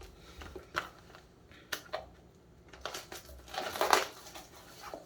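Trading-card packaging being handled: scattered light taps and rustles, with a louder rustling patch about three and a half to four seconds in.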